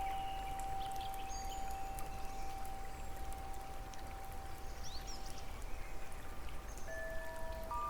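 Wind chime notes ringing: one tone sustains and slowly fades, then new chime notes are struck near the end. Underneath runs a steady sound of running water, with a few faint bird chirps.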